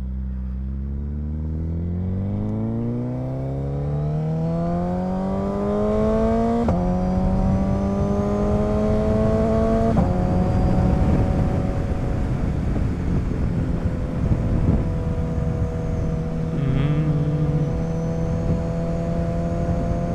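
Suzuki Hayabusa's inline-four engine accelerating, its pitch climbing steadily, shifting up about six and a half seconds in and again about ten seconds in, then holding a steady cruise, with wind rush underneath.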